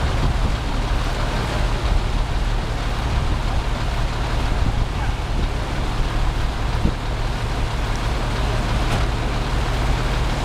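A motor vehicle's engine running steadily, with a constant rushing noise over it.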